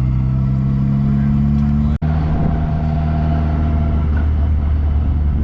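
MG Midget's four-cylinder engine running steadily on the move, heard from the open cockpit. There is a brief dropout about two seconds in, after which the engine note settles a little lower.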